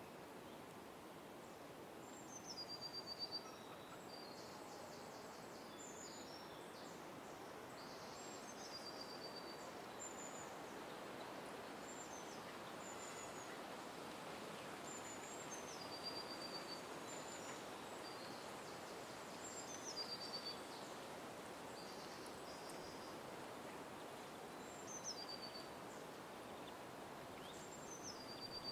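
A small songbird repeatedly gives a short high call every few seconds, each dropping quickly in pitch and ending in a quick run of notes, over a steady background hiss.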